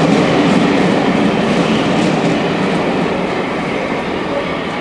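Passenger coaches of a steam-hauled train rolling past on the track, their wheels running on the rails, slowly fading as the train draws away.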